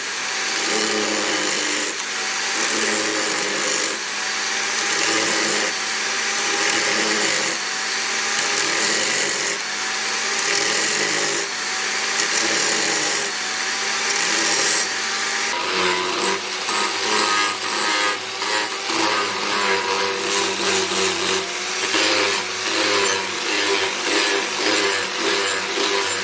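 Power tool grinding a steel blade in repeated passes, each about a second and a half long, with the pitch sagging under each pass. About 15 s in it changes to shorter, choppier strokes.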